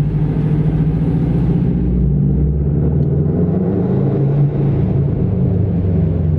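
Subaru's engine running as the car moves slowly, a steady low drone with road rumble.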